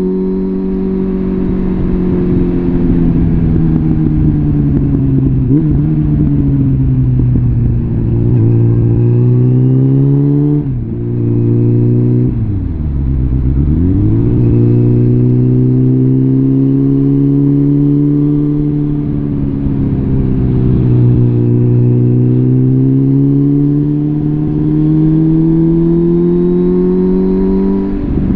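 Suzuki GSF650 Bandit's inline-four engine through a full Arrow exhaust system, ridden on the road. Its note climbs and eases off, breaks briefly about eleven seconds in, then drops deep and pulls back up a couple of seconds later.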